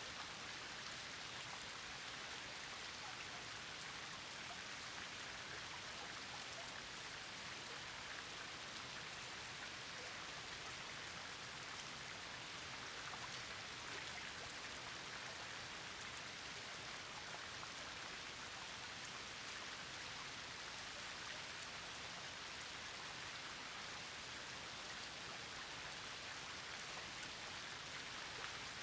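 Steady rain falling: an even hiss of many drops with faint scattered ticks, unchanging in level.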